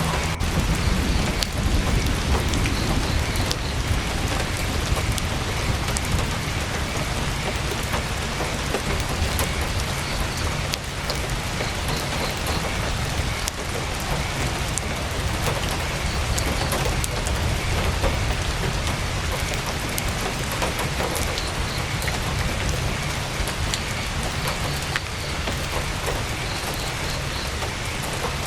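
Heavy rain falling on a tent's canvas: a steady dense hiss over a deep low rumble, with scattered sharp ticks of drops.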